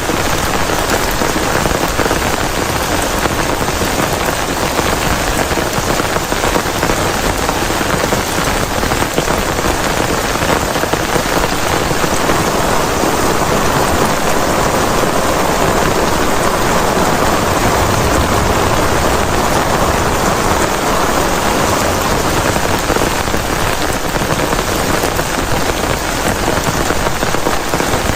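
Heavy rain falling steadily, a loud, even downpour with no pause.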